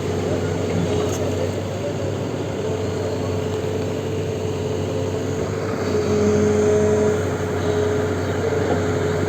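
Truck engine running steadily, with a steady hum; it grows louder for about a second around six seconds in.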